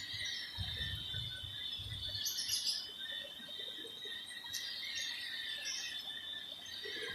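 Insects chirring steadily in two high tones, with a few brief bird chirps and some soft low thumps in the first couple of seconds.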